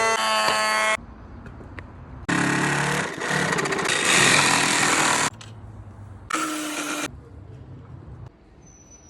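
Power tools running in short, abruptly cut stretches: a steady motor whine for about a second, then a longer noisy stretch of cutting or sanding on wood, then a brief burst near the end.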